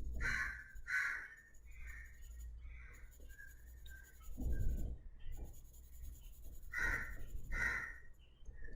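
Pencil scratching on paper in a few short separate strokes while shading a drawing, with a dull low bump about halfway through.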